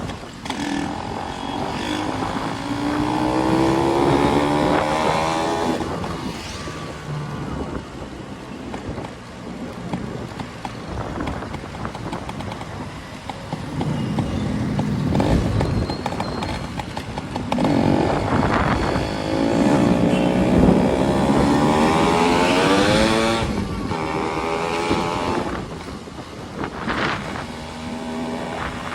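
Motorcycle engines on the road, twice revving up through a gear with the pitch rising for a few seconds, once about two seconds in and again about eighteen seconds in, with steady engine and road noise in between.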